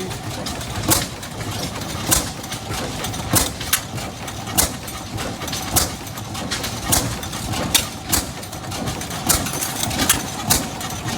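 Oil City stationary oilfield engine running slowly, each firing a sharp exhaust pop about every 1.2 seconds.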